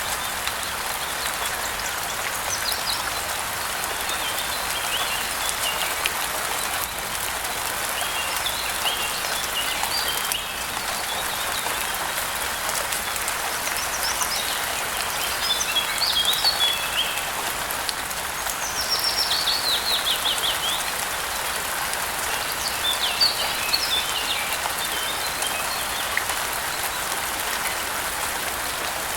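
Steady rain falling, with small birds chirping in short phrases every few seconds over it, one a quick run of descending notes.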